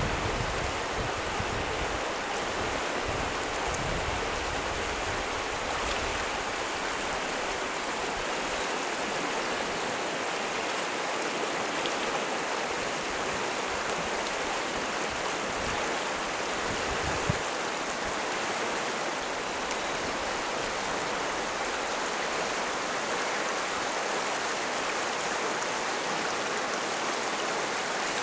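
Hoh River water rushing steadily. A few low thumps come in the first seconds, and a single brief knock comes midway through.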